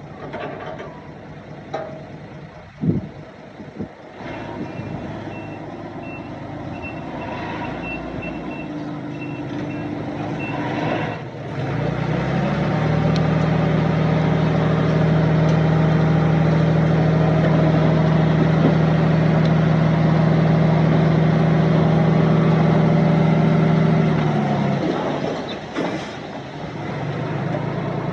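A heavy vehicle's reversing alarm beeps steadily for about six seconds over a diesel engine. Then, about twelve seconds in, the engine revs up and runs loud and steady for around twelve seconds before dropping back to idle. A single sharp knock comes about three seconds in.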